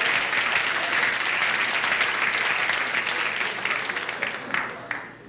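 Studio audience applauding, a dense steady clatter of clapping that dies away over the last second or two.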